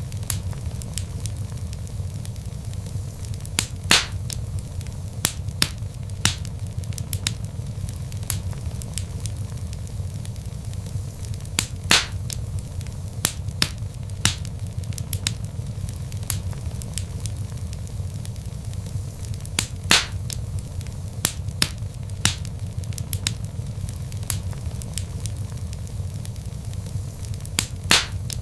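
Log fire in a fireplace crackling, with frequent sharp pops and snaps over a steady low rumble of the flames; the loudest pops come about every eight seconds.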